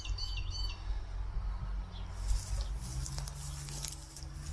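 A small bird chirping a few quick, repeated notes at the start, over a low outdoor rumble, with a few faint knocks later on.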